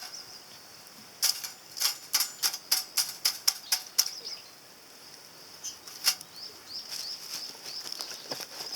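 Lumps of charcoal clinking as they are handled and tossed into a small titanium fire grill: a quick run of about ten sharp clicks over three seconds, then one more a couple of seconds later, over a faint steady high hiss.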